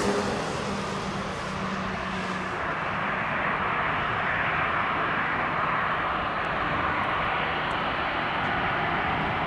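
Airbus A320neo's CFM LEAP-1A turbofan engines running with a steady rushing roar; a high hiss fades away in the first two or three seconds.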